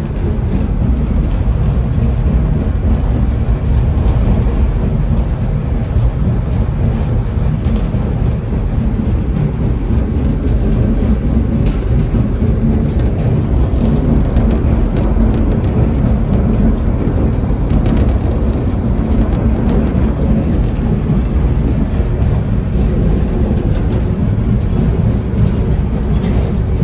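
Steam excursion train running along the track, heard from a passenger car as a loud, steady rumble of wheels on rails, heavy in the low end.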